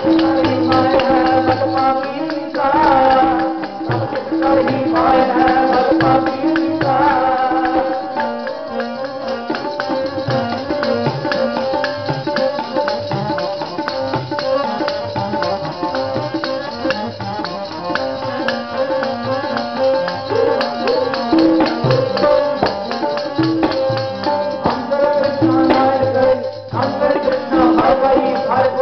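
Sikh kirtan: a man singing gurbani to sustained reed-like accompaniment over fast, steady jingling percussion. The voice is clearest in the first part and again near the end, with steadier instrumental notes in between.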